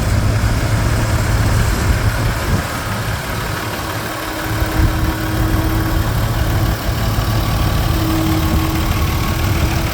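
Farm tractor engine running at a slow, steady idle, with a faint steady whine in the middle stretch.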